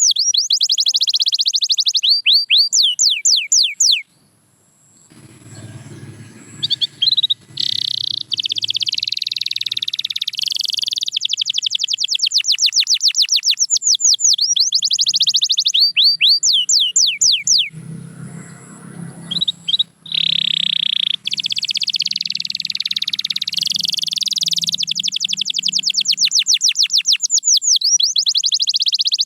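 Domestic canary singing a long song of rapid repeated trills, each a fast falling note, alternating with held rolling passages. The song breaks off briefly about four seconds in and again around eighteen seconds, then resumes.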